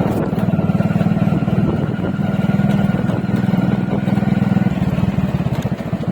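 Motorcycle engine running while riding, with a steady, even engine note that drops away about five seconds in.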